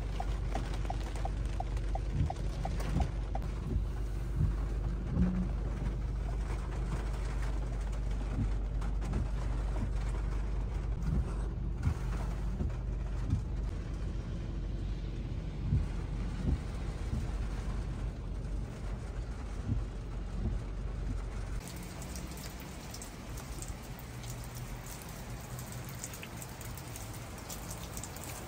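Rain pattering on a car's windshield and roof, many small ticks over the low rumble of the car. About three-quarters of the way through it changes abruptly to a steadier, hissier rain falling outdoors.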